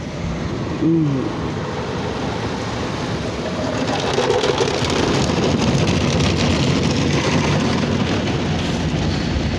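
Ryko Softgloss XS 2 automatic car wash working over the car: a steady rushing of water spray and brushes on the body that grows louder about four seconds in. A brief rising-and-falling tone sounds about a second in.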